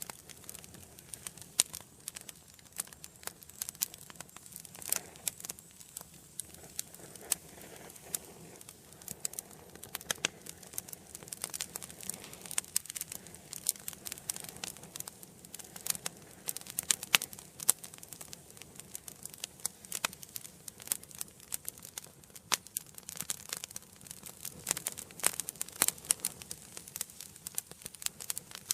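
Wood fire burning in a fireplace, crackling and popping with many sharp, irregular snaps over a soft hiss of flame.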